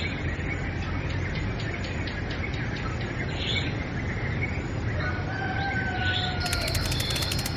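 Birds chirping and calling over a steady low background rumble. About six seconds in, a fast, high ticking joins.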